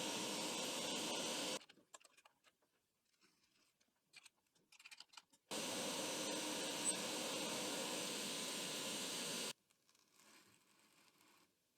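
Steady rushing machine noise in two blocks of about four seconds each, starting and stopping abruptly, with faint clicks and taps in the quiet stretch between.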